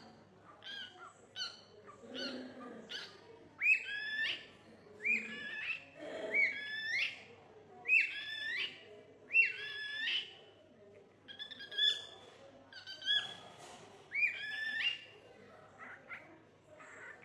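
A parrot giving a run of short whistled calls, each a quick upward glide that levels off, repeated about once a second, loudest in the middle stretch.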